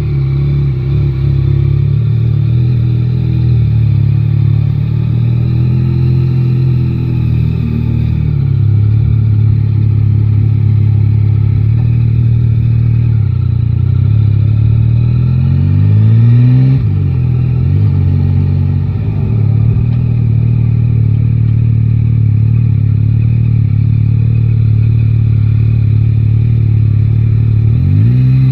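Yamaha Tracer 9 GT's three-cylinder engine running at low, steady revs in city riding. About halfway through the revs climb under acceleration and then drop sharply at a gear change, and they climb again near the end.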